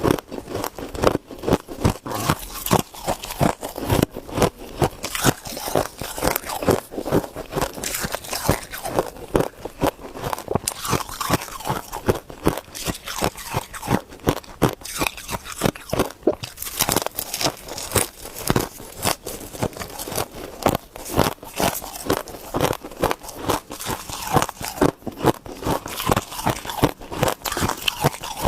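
Ice being bitten and chewed: a dense, steady run of sharp crunches, several a second, without a break.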